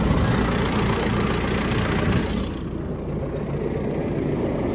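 John Deere 6430 tractor's diesel engine idling steadily. About two and a half seconds in, the higher hiss over it drops away and the sound gets a little quieter.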